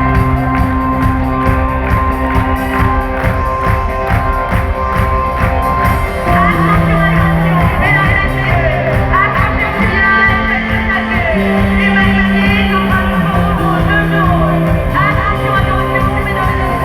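Live rock band playing over a steady, pulsing drum beat, with long held bass and keyboard notes. From about six seconds in, a wavering melodic line, likely voice, sings over it.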